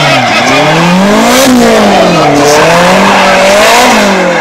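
Small hatchback's engine revving hard and dropping back, rising in pitch and falling about three times as the car is driven quickly around the cones.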